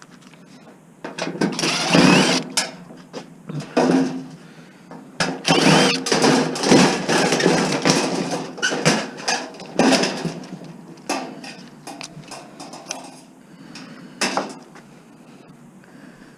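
Power drill with a Robertson square-drive bit running in short bursts to back out screws, with metal parts clattering in between.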